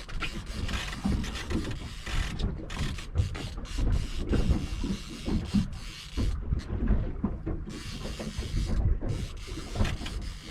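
Fishing reel being wound in with a ratcheting, clicking mechanism while a hooked fish is played on the line, over an uneven low rumble.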